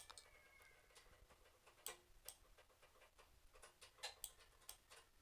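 Near silence with faint, scattered clicks from working a computer's mouse and keyboard.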